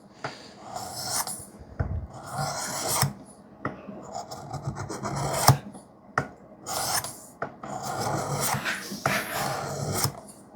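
A knife's 3V steel edge being swiped repeatedly across a wetted sharpening stone of a Work Sharp sharpening system, a gritty scraping stroke about once a second.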